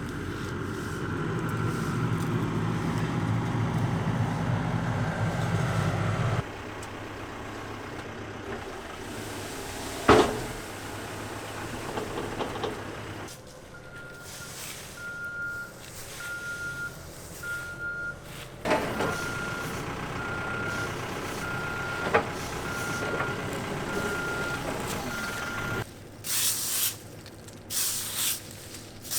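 A heavy vehicle's engine running, then its reversing alarm beeping steadily at about one beep a second, with a couple of sharp knocks. Near the end come short bursts of hissing noise.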